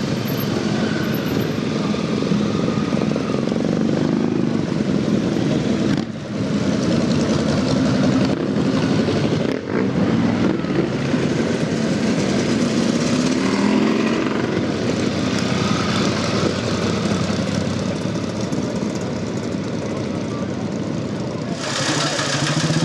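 Motorcycle engines running and revving, their pitch rising and falling, over a crowd's chatter. The sound cuts off abruptly for a moment about six seconds in and again near ten seconds, and turns brighter and hissier near the end.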